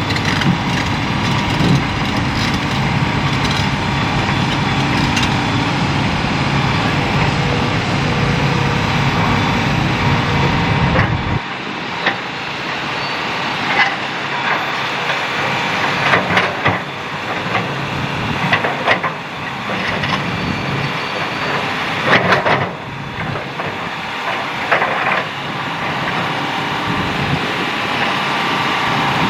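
Hitachi hydraulic excavator's diesel engine running steadily under load. About eleven seconds in, the low engine hum drops away abruptly, leaving irregular clanks, knocks and scrapes of the bucket working stony sand-and-gravel fill.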